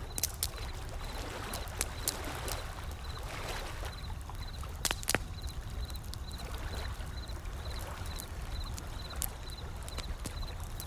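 Wood fire crackling, with a scattering of sharp pops, over ocean waves washing in, whose surges rise and fall against a steady low rumble. A faint high chirping repeats in the background.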